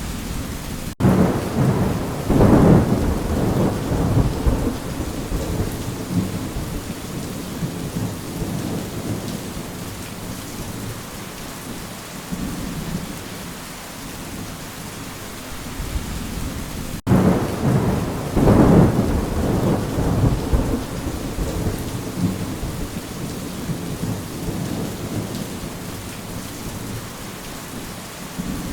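Steady rain with two rolls of thunder, one about a second in and another about seventeen seconds in; each starts abruptly after a split-second gap in the sound and rumbles away over several seconds.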